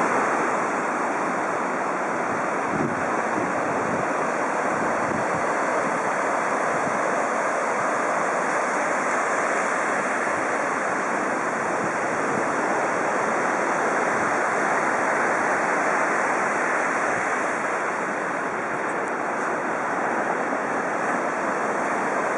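Ocean surf breaking and washing onto a sandy beach, a steady roar, with wind buffeting the microphone in short gusts during the first several seconds.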